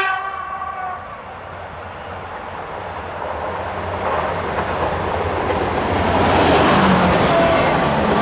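X 72500 diesel multiple unit sounding a short horn blast that ends about a second in, then its running noise growing steadily louder as it approaches.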